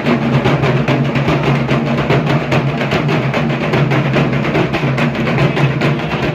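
Dhak, the large Bengali barrel drum, beaten with sticks in a fast, continuous, unbroken rhythm.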